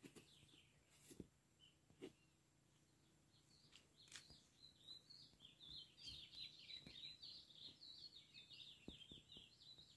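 Faint birdsong: a small bird twittering in quick, high chirps from about four seconds in, with a few soft ticks earlier.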